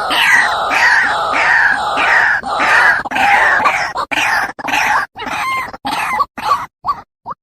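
White-breasted waterhen (ruak-ruak) calling: a loud run of harsh, repeated notes at about three a second, breaking up into short separate notes with gaps in the second half.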